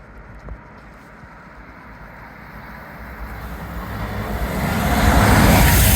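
A train approaching along the line: a low rumble and rush that grows steadily louder from about two seconds in until it is loud near the end.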